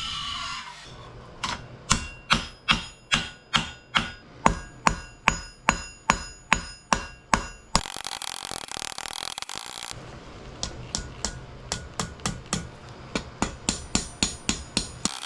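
Hammer blows on steel at the anvil while forging a spoon: a run of heavy, evenly spaced strikes, about two and a half a second, each with a metallic ring. They are followed by a two-second hiss, then a run of lighter, quicker taps.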